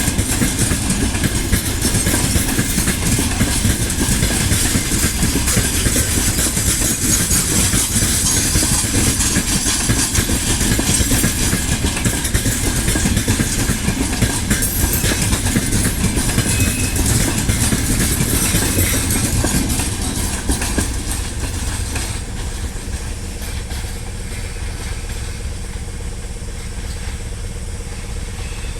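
Freight train hauled by a 2EL5 electric locomotive running on the rails. About twenty seconds in, the running noise eases and a steady hum is left.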